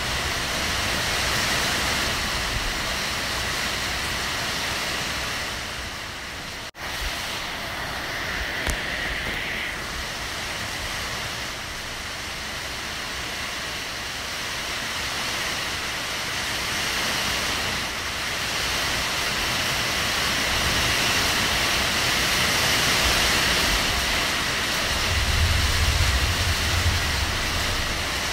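Heavy rain pouring down in a steady hiss. The sound dips briefly about seven seconds in, and a low rumble rises near the end.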